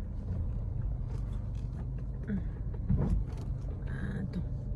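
Motor vehicle moving along a rough dirt road: a steady low rumble with a few faint knocks, one about three seconds in.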